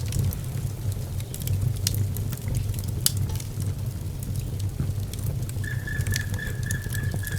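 Wood fire burning in a fireplace, crackling with scattered sharp pops over a low, steady rumble. About three quarters of the way in, a thin steady whistle comes in and holds to the end.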